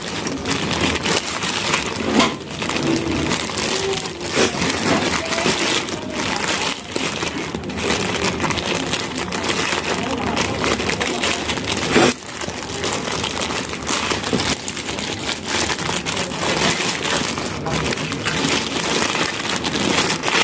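Continuous rustling and crinkling of hands rummaging through packets of spare electronic components, looking for a replacement capacitor.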